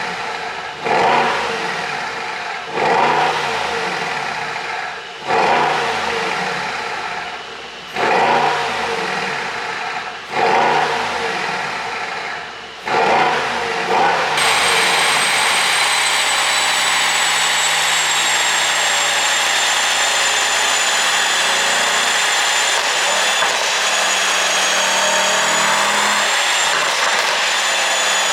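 Mercedes-AMG S63's twin-turbo V8 free-revved in quick blips, about seven of them, each rising sharply and falling away with crackling exhaust pops on the overrun from a pop-and-crackle ECU tune. About halfway through, the sound cuts to a steady rushing noise with a high whine.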